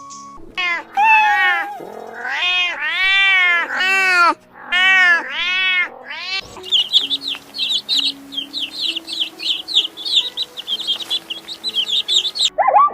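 Domestic cat meowing repeatedly, a series of about six rising-and-falling meows. About six seconds in, it changes abruptly to a rapid run of short high chirps. Steady background music plays under both.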